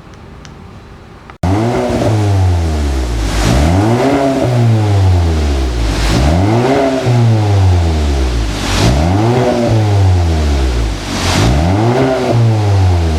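Kia K5 DL3's 1.6-litre turbocharged four-cylinder engine through an aftermarket dual variable-valve exhaust, revved up and let fall back about five times in a steady rhythm. The exhaust is loud from about a second and a half in, after a quieter low hum.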